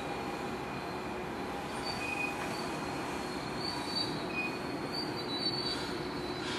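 NJ Transit Arrow III electric multiple-unit train approaching on the station track, a steady rumble of wheels on rail with short, faint high-pitched squeals coming and going.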